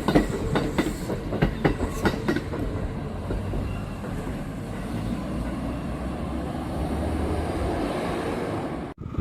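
Kintetsu electric train's wheels clattering over rail joints as it passes, a quick run of clickety-clack for the first couple of seconds. The clacking then gives way to a steady rumble that cuts off abruptly near the end.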